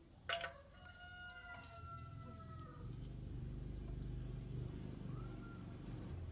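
A rooster crows once, a long, slightly falling call lasting about two and a half seconds. A low, steady rumble builds up underneath it from about halfway through.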